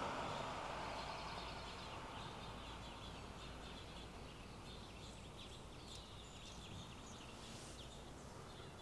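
Faint small birds chirping and twittering in quick, irregular runs over quiet outdoor background noise.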